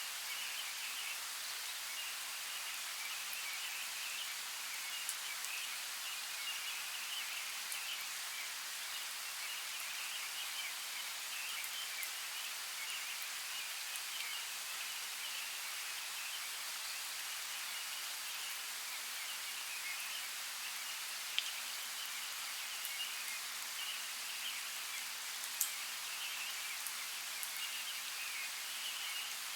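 Forest ambience: a steady hiss of flowing creek water, with a faint high flickering texture above it. A few sharp ticks stand out, the clearest about twenty-one and twenty-five seconds in.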